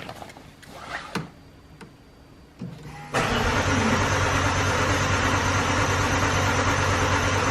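A McLaren's starter cranking the engine steadily for about five seconds, beginning about three seconds in and cutting off abruptly, without the engine firing. The battery is dead, and the car is being jump-started from a booster pack that fails to start it. A few light clicks come first.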